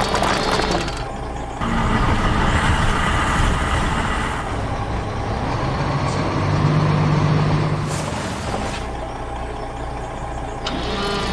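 Heavy truck engine sound effects rumbling. A rush of noise comes a couple of seconds in, and a steady low tone is held for about a second and a half past the middle.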